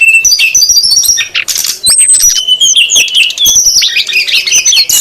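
Brown-chested jungle flycatchers (sikatan rimba dada coklat), male and female, calling busily together. Rapid chirps and short whistled notes are mixed with a few harsh, buzzy calls: the excited duet used as a lure call.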